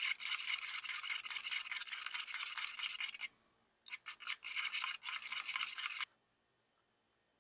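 Rapid back-and-forth rubbing strokes on a hard surface, like sanding or scrubbing by hand, in two spells with a brief pause a little after three seconds; they stop about six seconds in.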